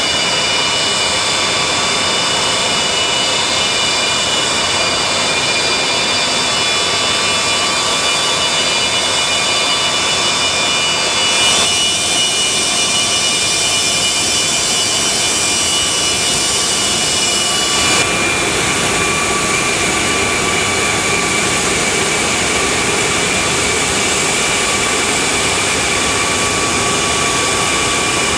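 Antonov An-124-100's four D-18T high-bypass turbofan engines running, a steady loud rush of jet noise with several high whining tones over it. The sound shifts abruptly twice, about 12 and 18 seconds in.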